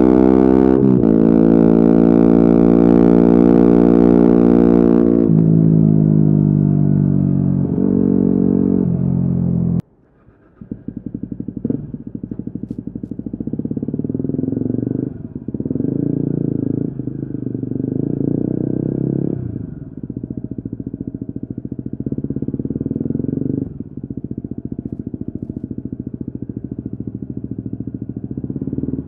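Loud, held musical tones for about the first ten seconds, stepping in pitch twice. Then, after a brief break, a Yamaha WR250R's single-cylinder four-stroke engine runs through an FMF aftermarket exhaust while riding, its revs rising and falling with the throttle, with short dips several times.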